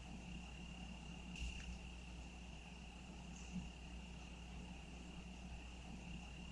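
Faint outdoor insect chorus: a single steady high-pitched trill, with a soft brief rustle about a second and a half in.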